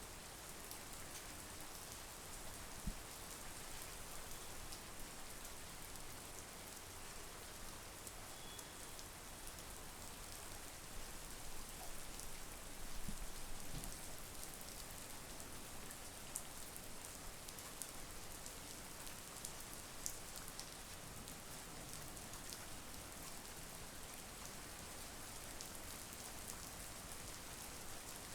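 Steady monsoon rain falling, an even hiss with a few sharper single drops ticking close by.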